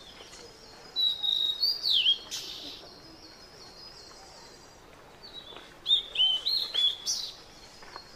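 A songbird singing two phrases of high, quick whistled notes with sliding pitch, one about a second in and another near six seconds in, over quiet outdoor ambience.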